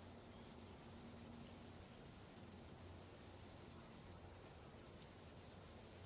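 Near silence: faint ambience with a steady low hum and very high, thin chirps, likely a small bird's calls, coming in small clusters about once or twice a second. No pecking on the wood is heard.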